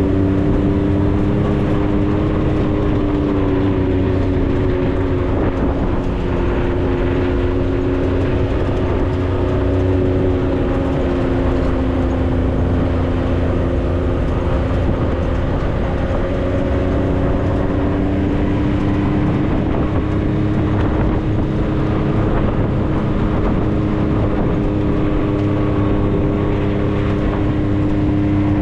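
The engine of a 4x4 vehicle running under way on a dirt road, a steady drone that sags slightly in pitch a few seconds in and climbs gently near the end as it speeds up, over the rumble of tyres and road noise.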